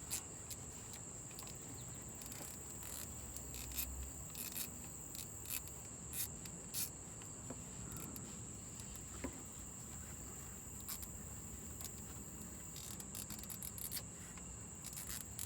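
Scattered short clicks of a hand ratchet working the transmission pan bolts, over a steady high-pitched insect-like drone.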